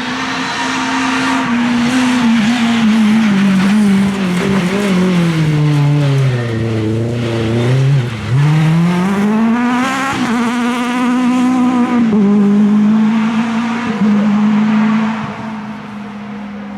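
Group F2000 rally car engine held at high revs, then dropping steadily in pitch as the car brakes and slows into a corner. After a brief break about eight seconds in, it revs sharply back up and holds high as the car accelerates away, quieter near the end.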